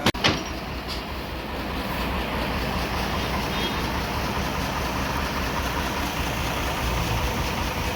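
Band sawmill running steadily, its engine and blade noise building over the first two seconds and then holding, after two sharp knocks right at the start.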